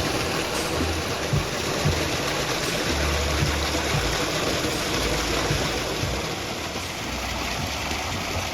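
Rushing water of a stream or waterfall, a steady full hiss, with soft background music whose low bass notes come and go in the first half.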